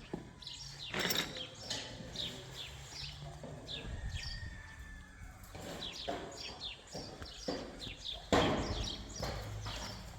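Small birds chirping rapidly and repeatedly in short, high, falling notes, with a few short knocks in between, the loudest about eight seconds in.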